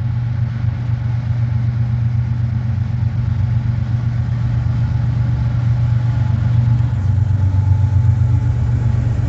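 Diesel-electric freight locomotives, a BNSF unit leading, running as they approach: a steady low engine drone that grows slightly louder.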